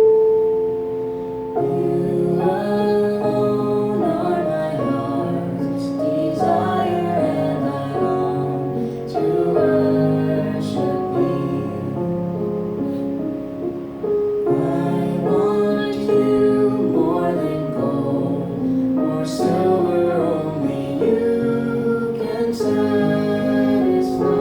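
A slow song with a woman singing over instrumental accompaniment, at a steady, gentle pace.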